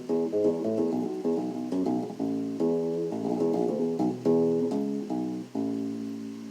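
Solo bass guitar played with one hand: a quick line of short plucked notes, some left ringing and others choked into muted dead notes that give a percussive click.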